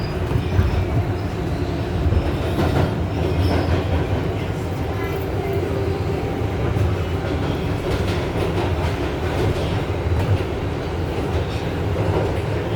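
R188 subway car running on the track, heard from inside the car: a steady low rumble with occasional light clicks from the wheels on the rails.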